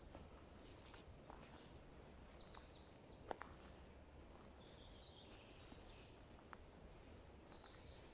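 Faint songbird song in a forest: two phrases of about two seconds each, made of quick high falling notes, with a softer warble between them and a few small clicks or snaps.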